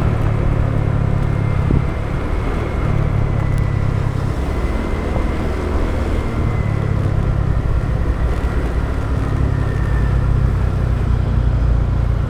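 Motorbike on the move: engine running with road and wind noise as a steady low rumble, and a faint high whine through most of it.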